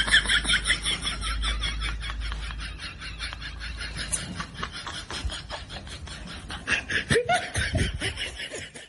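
High-pitched laughing: a fast, even run of giggles, with a few lower voice sounds near the end.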